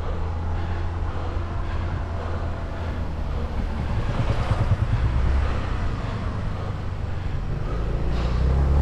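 Low, steady engine rumble of a motor vehicle close by on the road, mixed with wind rumble on the microphone, getting louder near the end.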